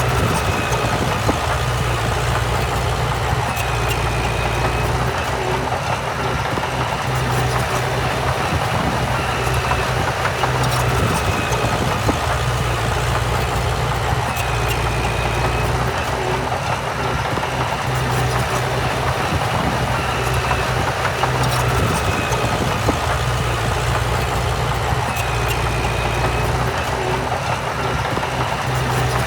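Heavy diesel earthmoving machinery running steadily, with a deep engine note and scattered clicks and clanks. A brief high squeak recurs every five or six seconds.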